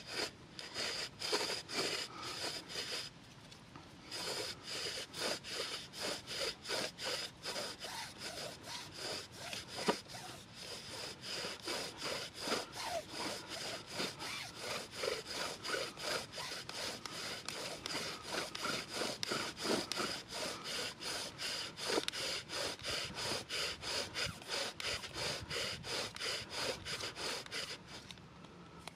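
Rhythmic back-and-forth strokes on wood, about two to three a second, with a thin steady squeal above them. There is a short pause about three seconds in, and the strokes stop near the end.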